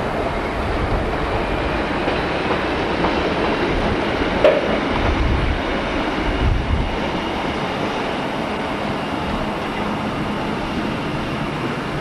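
Electric locomotive and its passenger coaches rolling past on the track, a steady rumble with wheels clattering over the rail joints. There is a single sharp knock about four and a half seconds in.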